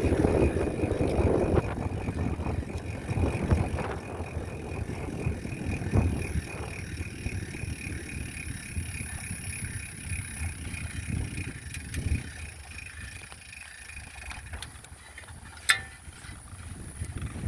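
Bicycle ride with wind on the microphone and low rumble, easing in the second half, plus faint steady high-pitched tones. A single sharp click comes about three-quarters of the way through.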